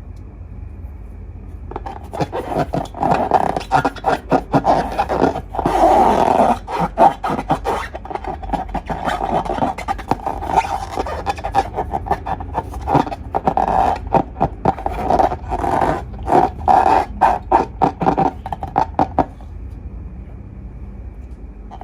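Slime being squeezed and stretched by hand, with rapid sticky clicks and pops that start about two seconds in and stop shortly before the end.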